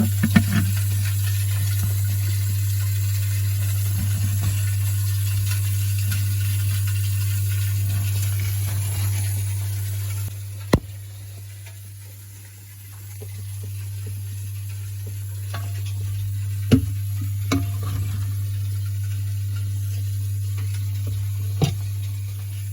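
A steady low hum with a faint hiss, dipping for a couple of seconds about halfway, broken by a few sharp clicks.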